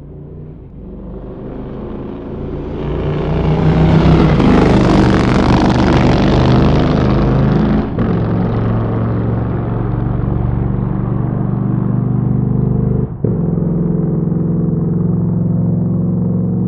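Motorcycle engine swelling up from quiet over about four seconds, then running at steady revs, with two very brief dips in the sound about eight and thirteen seconds in.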